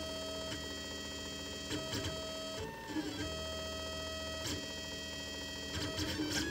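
Lulzbot Mini 3D printer's stepper motors whining at steady pitches as the print head moves, the tone breaking with short clicks every second or two as each move changes.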